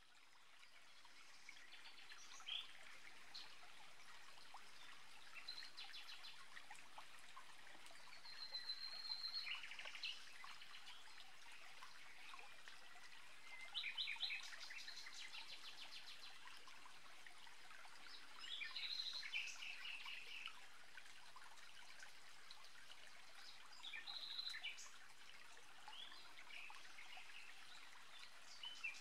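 Outdoor ambience fading in: birds chirping, with a few rapid trills, over a steady hiss.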